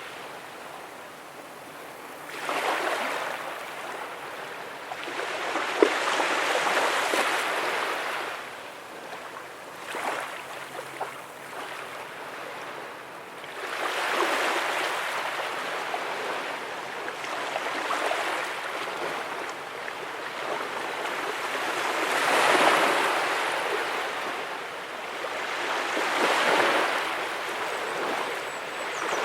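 Ocean waves breaking and washing up on a sandy beach, the surf swelling and fading every few seconds.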